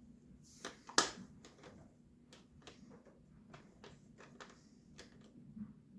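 Scattered light clicks and knocks of hands and a tool working a hose onto a dirt bike and tightening it, the loudest knock about a second in.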